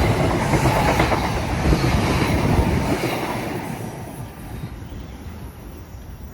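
NJ Transit passenger train rolling past, loudest at the start and fading over a few seconds as it moves away.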